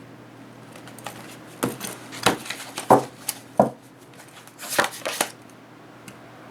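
A deck of tarot cards being cut by hand on a table: a run of sharp taps and slaps of the cards against the surface, then a short rustle of the cards about five seconds in.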